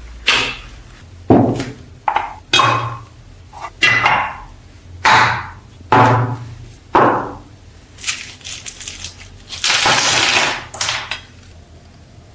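A series of sharp metal clinks and knocks, about one a second, each ringing briefly, as metal tool parts are handled and struck. Near the end comes a short burst of hiss.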